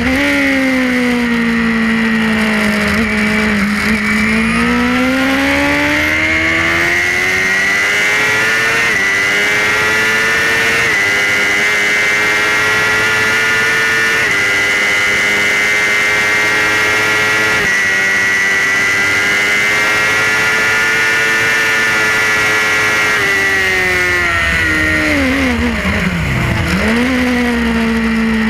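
Suzuki GSX-R superbike's inline-four engine at racing speed, heard from on board. The revs fall and pick up again, then climb with several upshifts and hold high for a long stretch. Near the end they drop steeply under hard braking and downshifts before rising again.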